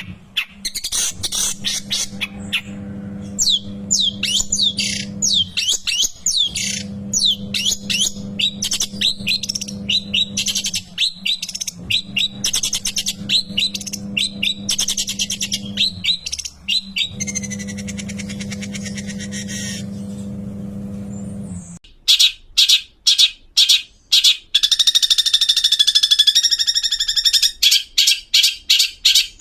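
Long-tailed shrike (cendet) singing a fast, varied run of chirps and sweeping whistles over a steady low hum. About 22 seconds in, the song changes to rapid repeated harsh, rasping notes.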